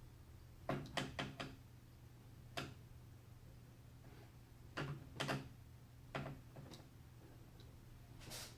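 Scattered light clicks and knocks of computer parts being handled and fitted, a quick run of four about a second in and single or paired knocks after, over a steady low hum.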